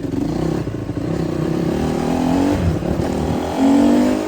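Honda CRF150R dirt bike's four-stroke single-cylinder engine revving under acceleration, its pitch climbing, with the loudest rev near the end.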